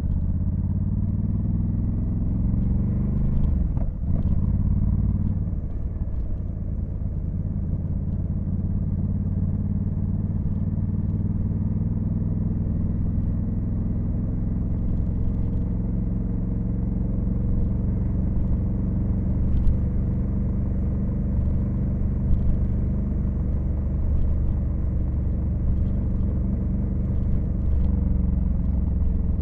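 Honda Africa Twin CRF1100L's 1084 cc 270° parallel-twin engine under way, climbing in pitch as it accelerates for the first few seconds. It breaks off briefly about four seconds in at a gear change, then runs fairly steadily at cruising speed.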